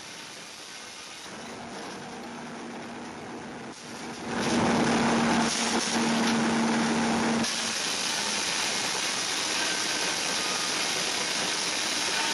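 Steam-powered sawmill running: a steady hiss with a low hum. It gets louder about four seconds in and eases slightly about three seconds later.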